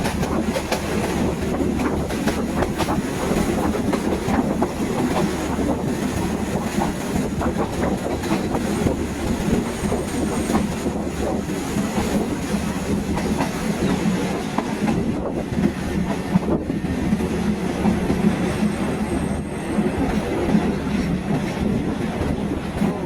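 A moving train running along the track: a steady rumble with wheels clattering rapidly over the rail joints.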